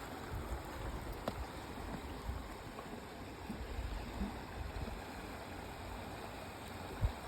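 Shallow mountain river running steadily over rocks, an even rushing wash of water. A short low thump comes near the end.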